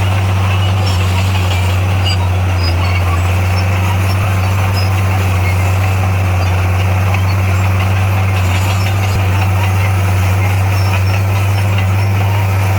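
Heavy construction machine's diesel engine running steadily, a strong low hum that holds the same pitch and level throughout.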